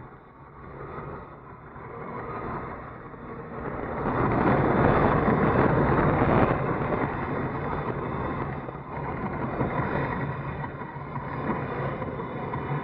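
Car driving on a highway: a steady low engine hum under road and wind noise, which swells louder for a few seconds in the middle.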